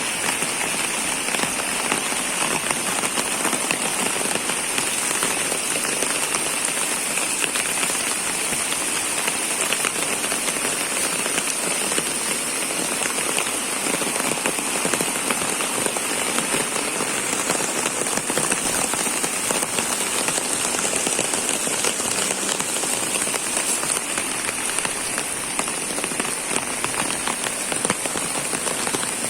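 Steady, even hiss of falling water, with no let-up or change.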